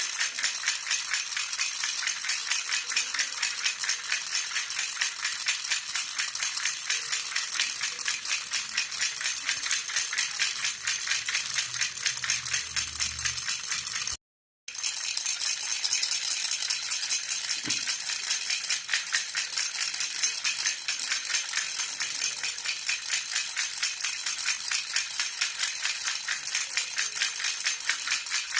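A jhunjhuna baby rattle shaken steadily in a fast, even rhythm, making a bright, continuous jingling rattle. It cuts out completely for about half a second about halfway through, then resumes.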